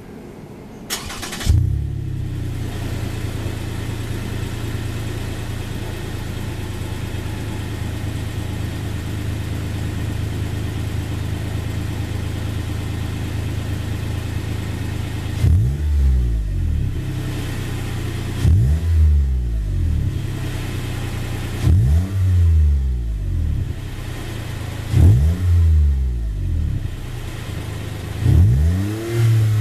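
Toyota Vellfire's engine starting through a Kakimoto KR Noble Ellisse aftermarket muffler, then idling steadily. In the second half it is blipped five times, about every three seconds, each rev rising and falling in pitch before settling back to idle.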